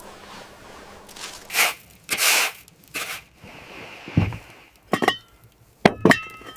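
A few soft scraping swishes, then a dull low thump about four seconds in, followed by three sharp knocks that each ring briefly.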